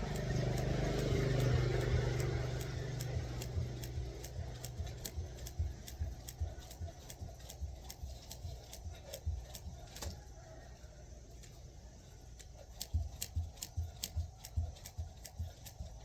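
Jump rope skipping: the rope ticks against the ground in an even rhythm of about three strokes a second, with soft landing thuds under many of them. A low vehicle hum fades away over the first few seconds.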